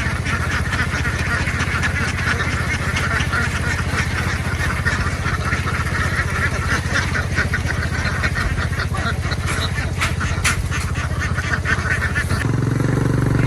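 A vehicle engine running steadily under the din of a large flock of ducks. About twelve seconds in, an engine grows louder and deeper.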